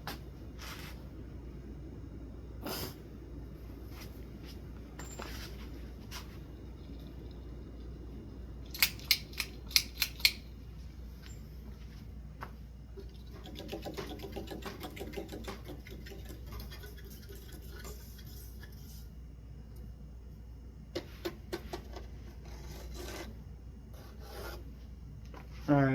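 Hands working on a ceiling fan's metal hardware over a steady low hum. A quick run of five or six sharp clicks comes about nine seconds in, then several seconds of fast rubbing ticks, and a few more clicks near the end.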